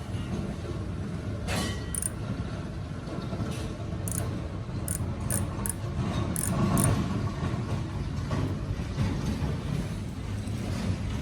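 A steady low mechanical rumble with a run of light metallic clinks between about one and a half and seven seconds in.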